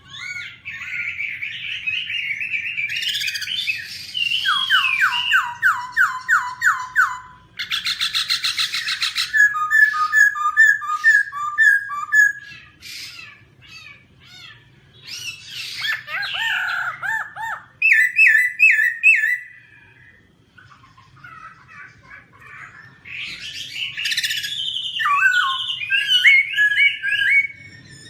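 Black-throated laughingthrush singing a loud, varied song of whistled phrases. It gives runs of repeated sweeping notes, a harsh rattling burst, and quick pairs of notes, then a short lull and more twisting whistles near the end.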